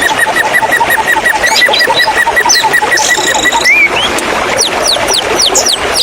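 White-rumped shama (murai batu) song over running water: a fast run of repeated short notes, about nine a second, then a series of quick falling whistles from about four and a half seconds in.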